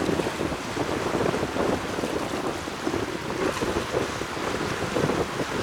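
Gusty wind buffeting the microphone: a steady rushing noise with irregular low gusts.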